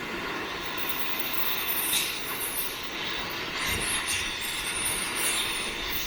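Oxy-acetylene cutting torch hissing steadily with a crackle of burning metal as it melts out a stuck steel frame rivet.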